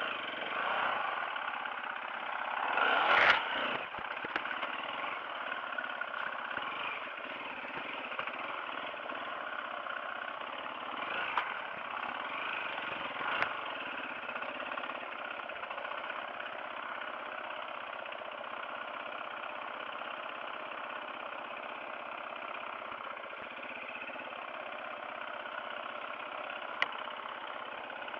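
Off-road motorcycle engine running steadily as it is ridden, with a brief loud burst of noise about three seconds in.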